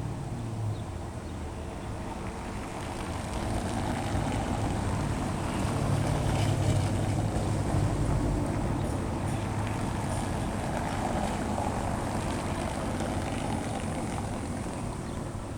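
Car tyres rumbling over a cobblestone street, with a low engine hum underneath. The rumble grows louder a few seconds in, then eases off toward the end.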